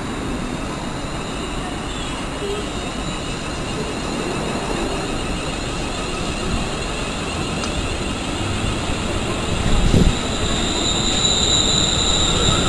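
Train running through a station platform, its rumble growing steadily louder, with a single knock about ten seconds in and a high whine rising near the end.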